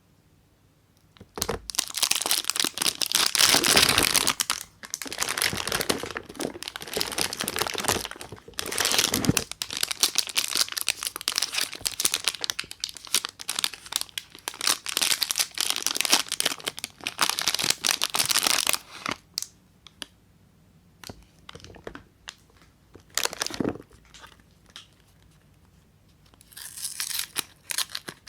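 Soap bar wrapper being crinkled and torn open by hand: dense crackling for most of the first two-thirds, then a few scattered small crinkles and taps, and crinkling again near the end.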